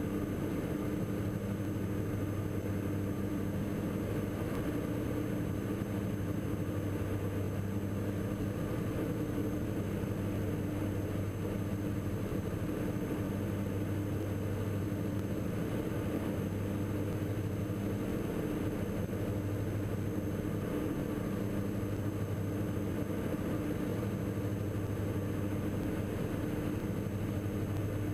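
Steady drone of a Diamond DA42 NG Twin Star's two turbo-diesel engines and propellers in flight, heard from the cockpit, a constant low hum.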